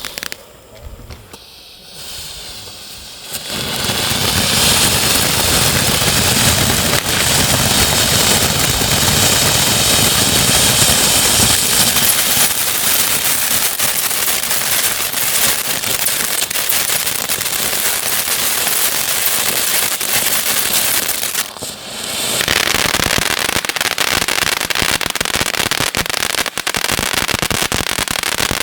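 Firework fountain burning. After a quieter first few seconds it breaks into a loud, steady hiss of sparks with dense crackling. It drops out briefly about three-quarters of the way through, then resumes with rapid crackling pops.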